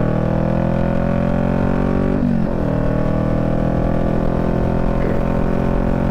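Motorcycle engine accelerating under load, its pitch climbing steadily and then dropping sharply about two seconds in as the rider shifts up a gear, before climbing again.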